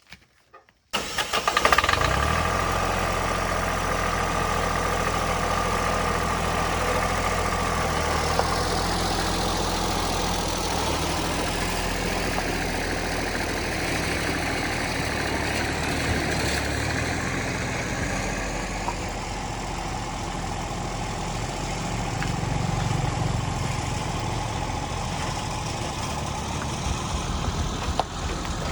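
An engine starts about a second in and then runs steadily at idle, its note shifting a little around the middle.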